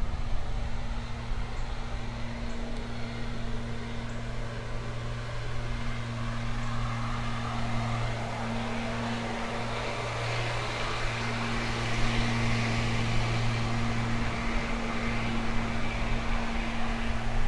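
Ride noise from an electric unicycle rolling along a street: wind buffeting the microphone and a steady low hum, with a hiss that swells in the second half.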